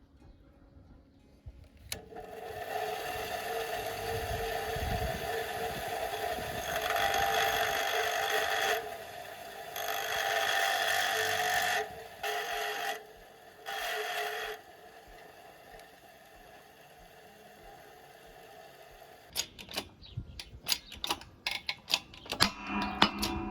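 A small electric power tool runs in several stretches, stopping and starting a few times, with a steady two-tone motor whine under a hiss of work on the part. Near the end come a quick run of light clicks and knocks, like metal parts being handled.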